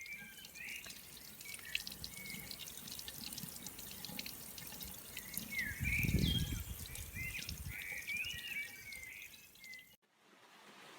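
Water dripping and trickling, with short chirping bird calls and a brief low rumble about six seconds in. The sound cuts off abruptly about a second before the end.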